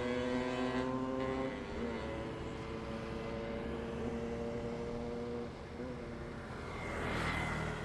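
Road traffic: a vehicle engine runs with a steady hum that fades away over the first five seconds or so. About seven seconds in, another vehicle passes close by in a swelling and falling rush of tyre and engine noise.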